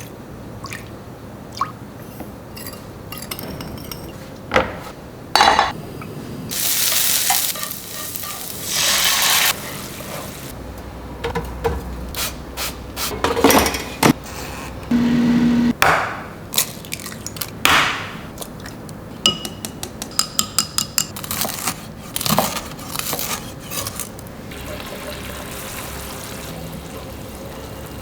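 Cooking sounds: utensils clinking and scraping on bowls and pans, stirring, and bursts of sizzling frying. A brief low hum comes about halfway through, followed by a quick run of taps.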